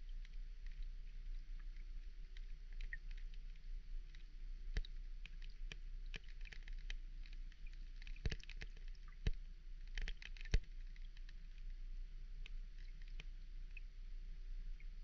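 Underwater ambience: scattered sharp clicks and crackles over a faint steady low hum, busiest in the middle.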